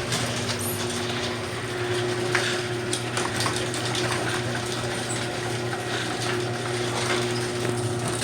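Chamberlain LiftMaster Professional 1/2 hp chain-drive garage door opener running steadily as it closes the garage door. A motor hum with a few held tones is joined by light rattling and clicking from the chain and door.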